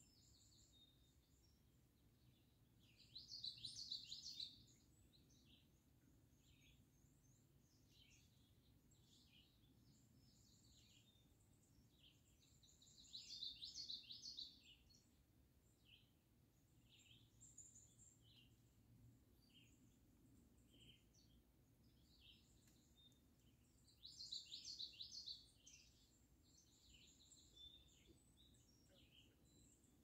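Faint songbirds singing: a short, fast song phrase comes three times, about ten seconds apart, with fainter short chirps in between.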